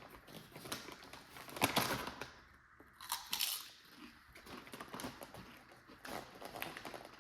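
Crunching and chewing of hot chili potato chips close to the microphone, a run of irregular crisp crunches with the loudest bites about two and three seconds in.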